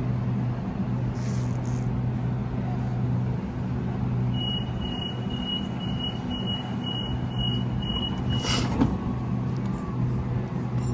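A Sydney Trains electric train standing at the platform with a steady low hum. About four seconds in, a rapid series of high door-closing warning beeps sounds for about four seconds. It ends in a short hiss of air as the doors shut before departure.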